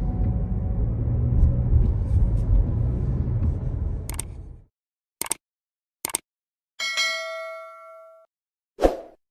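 A low rumbling noise that cuts off suddenly, followed by two short clicks, a single ringing ding that fades over about a second and a half, and a final thump.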